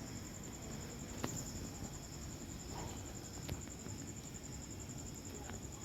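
A cricket trilling steadily in a high, fast-pulsing tone, with two sharp clicks and a faint short chirp over it.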